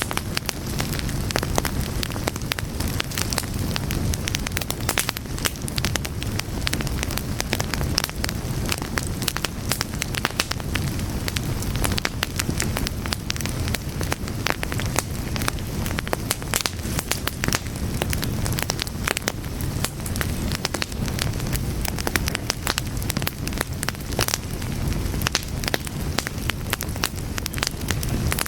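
Fire crackling steadily: many irregular sharp pops and snaps over a low, even rumble of flame.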